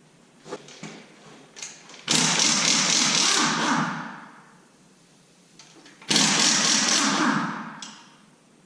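A hand-held power tool runs in two bursts of about two seconds each, backing out the single bolt that holds the oil pickup tube on an LS V8.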